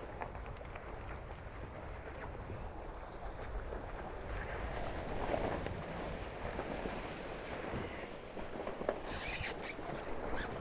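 Water rushing along a Tornado catamaran's hulls and wind on the microphone while the boat sails at speed. The rush swells a little midway, with a few small knocks.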